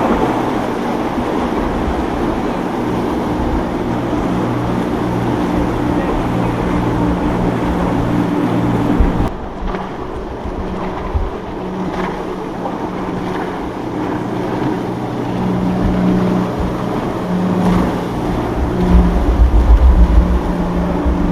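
Boat engines running with a steady drone over wind and water noise. The sound changes abruptly about nine seconds in, and near the end a heavy low rumble comes in as the wind buffets the microphone.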